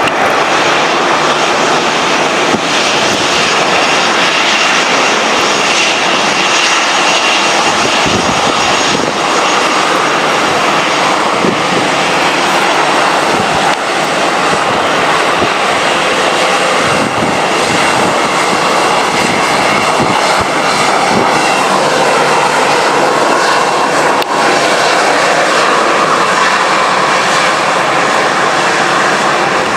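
Boeing 737-800's jet engines running, a loud steady rush with a faint whine whose pitch shifts lower about two-thirds of the way through.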